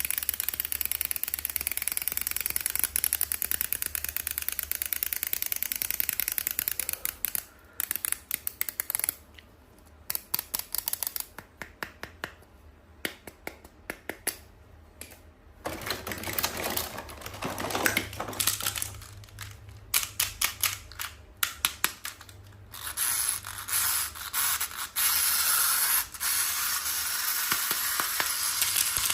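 Toys and packaging being handled close up, giving long runs of rapid plastic clicking and crackling. The clicking thins to scattered clicks through the middle and grows dense and hissy again in the second half.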